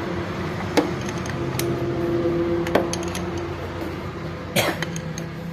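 A few sharp metallic clinks, like tools or metal parts being handled, over a steady low hum.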